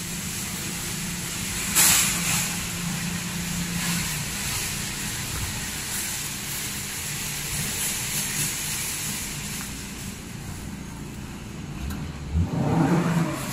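Steady low hum of a car engine idling, with a sharp knock about two seconds in and a louder bump near the end as grocery bags are handled and loaded into a car boot.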